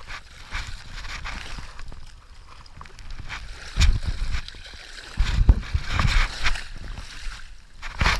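River water sloshing and gurgling around a paddleboard, with several heavy low rumbling swells partway through.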